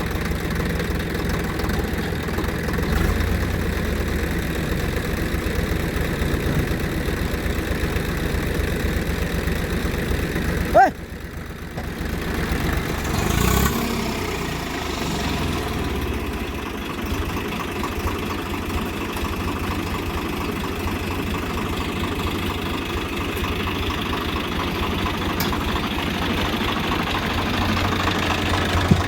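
Tractor's diesel engine running steadily at a low idle, with a brief break about eleven seconds in.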